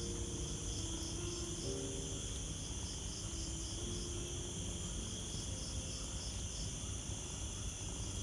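Crickets chirping in a steady, evenly pulsed rhythm, over soft, slow background music.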